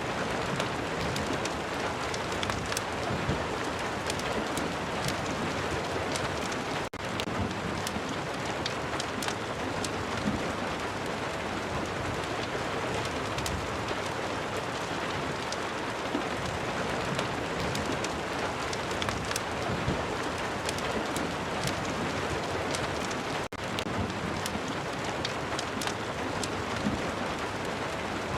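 Steady rain with a dense scatter of sharp crackles and ticks, typical of a fireplace burning alongside the rain. The sound cuts out for an instant twice.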